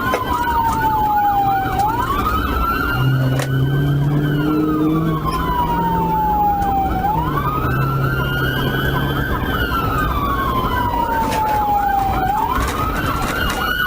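Police car sirens during a pursuit: one wails slowly, falling over several seconds and then sweeping quickly back up, about three times, over a second siren's rapid yelping. A steady low hum of engine and road noise lies underneath.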